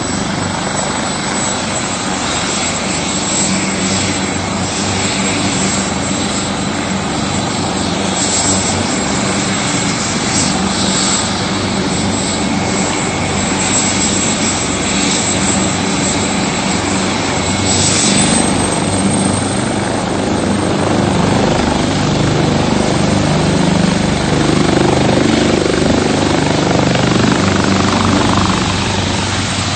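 AgustaWestland AW139 helicopter's twin turbine engines whining over the beat of the main rotor as it takes off. The whine rises briefly about two-thirds of the way through and then fades, while the rotor sound gets louder near the end.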